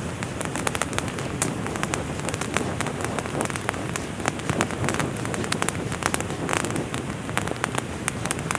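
Steady rain falling, with many sharp, irregular ticks of drops striking close by.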